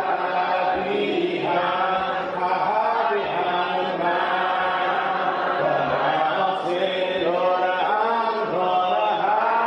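A group of voices singing a hymn unaccompanied, a cappella church singing, in one continuous sung line with no pause.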